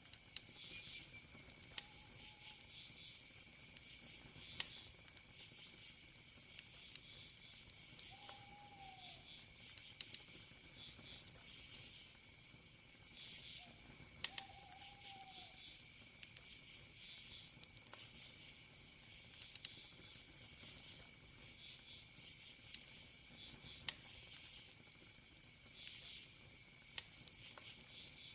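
Campfire crackling with scattered sharp pops over a steady chorus of crickets trilling and chirping. A few short, arching calls from another animal come now and then.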